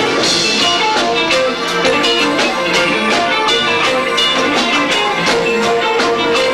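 Live rock band playing loud and frantic, with drums hitting densely over guitar. The band has two drummers. The sound is lo-fi from a 1990s camcorder's built-in microphone.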